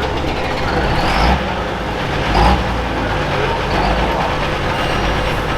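Diesel engine of a pro stock pulling tractor running steadily, a loud engine drone with a constant thin whine over it.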